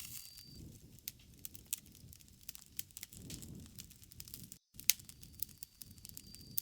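Bonfire crackling: irregular sharp pops and snaps over a low rumble of burning wood, with a faint high insect trill at the start and near the end. The sound cuts out for an instant a little past the middle, followed by the loudest pop.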